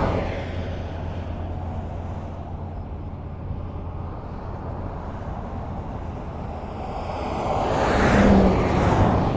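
Highway traffic: a steady wash of tyre and road noise. A vehicle that has just gone by fades in the first moment, and another approaches and passes about eight seconds in, with a low engine hum as it goes by.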